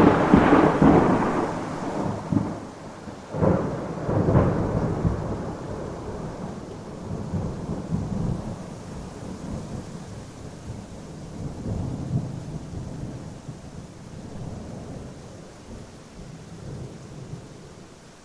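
Thunder over steady rain. A loud thunderclap rumbles at the start, a second crack and rumble come about three and a half seconds in, and a long rolling rumble then slowly dies away.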